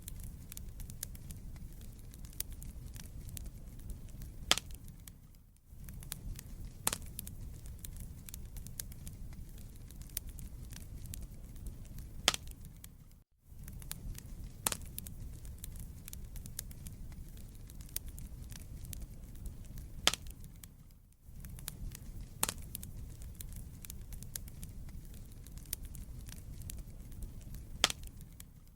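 Wood fire in a fireplace crackling, with frequent sharp pops and snaps over a low, steady rumble of flames. The sound briefly fades out and back three times, about every eight seconds.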